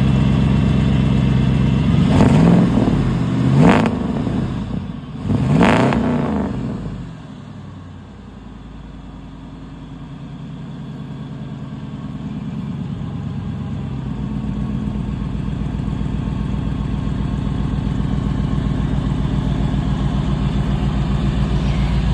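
1947 REO's fuel-injected 496 Chevy big-block V8 running just after a cold start, revved up three times in the first several seconds. It then drops to a steady idle that slowly grows louder.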